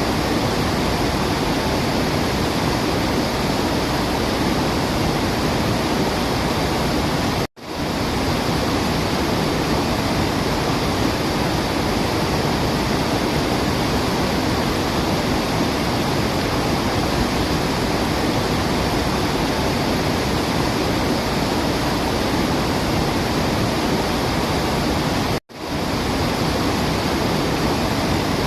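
Waterfall rushing with a steady, even roar of falling water. Twice the sound cuts off to silence for an instant and quickly swells back in.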